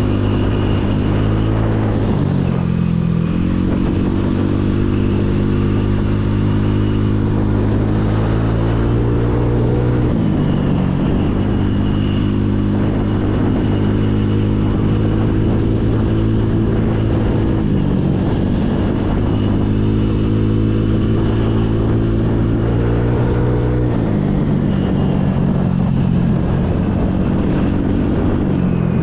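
Motorcycle engine on the move, with wind noise. Its pitch climbs steadily for several seconds and then drops sharply, about every seven seconds, four times in all.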